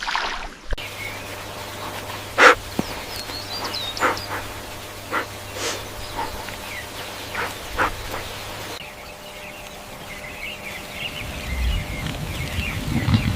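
Outdoor animal ambience: small birds chirping, scattered sharp knocks, and low animal sounds building near the end.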